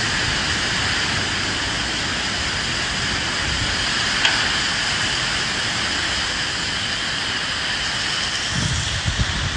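Steady rain hissing, with a single sharp tick about four seconds in and low rumbling swells of wind near the end.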